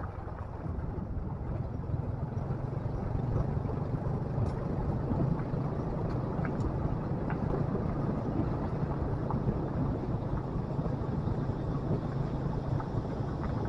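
Motorcycle engine running at a steady speed while riding, with a constant low hum under road and wind noise.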